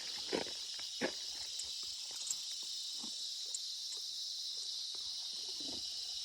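Steady chorus of cicadas, a continuous high buzz. A few soft thuds sound in the first second or so.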